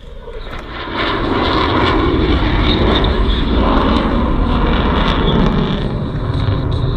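An aircraft flying past at an airshow, its engine noise swelling about a second in and staying loud.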